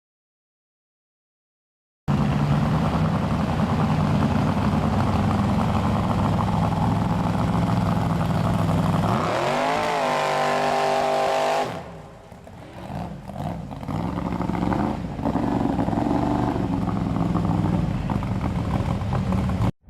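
Chevy mega truck's engine running hard at high revs, starting suddenly about two seconds in. Its pitch climbs shortly before the middle, then the engine drops off and revs up and down unevenly.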